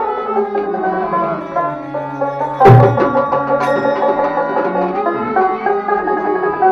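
Baul folk musicians playing: a plucked string instrument picks out a melody over hand-drum strokes, with one loud drum stroke about two and a half seconds in.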